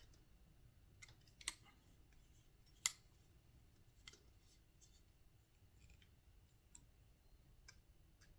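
Small, sharp clicks and ticks of hand tools and small metal parts being handled while screws are driven into an RC helicopter frame, with two louder clicks about a second and a half and three seconds in, then scattered faint ticks.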